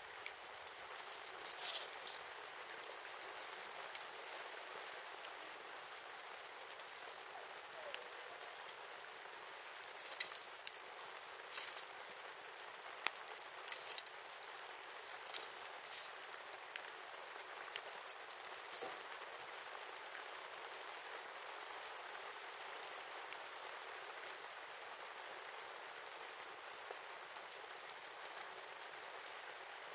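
Wood campfire burning: a steady hiss with scattered sharp pops and crackles, which thin out in the last third.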